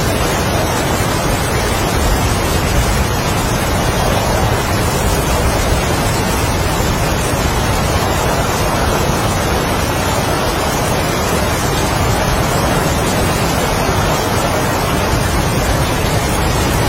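Heavy rain and strong wind, a steady dense rushing with no breaks or separate events.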